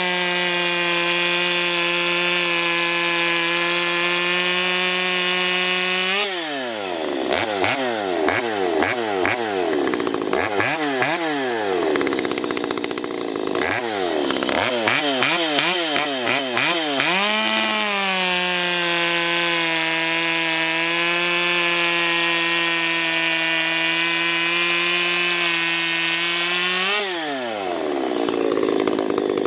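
Ported Stihl MS250 two-stroke chainsaw running at high revs held steady under load through a cut, then dropping back and being revved up and down in short blips. The revs rise again for a second long steady cut, then fall away near the end.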